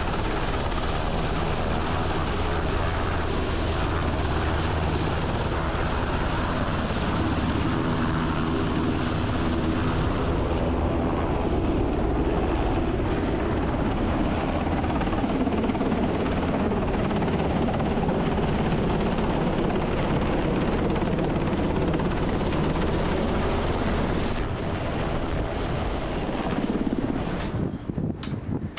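Helicopter rotor and turbine engines running, a loud, steady drone that holds almost unchanged and shifts slightly near the end.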